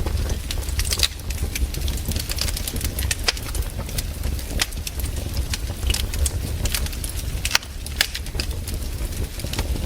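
Campfire crackling, with irregular sharp pops and snaps several times a second over a low steady rumble.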